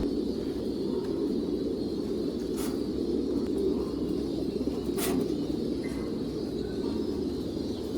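Many pigeons cooing together in a loft, a steady low chorus. Two short clicks stand out, one about two and a half seconds in and another about five seconds in.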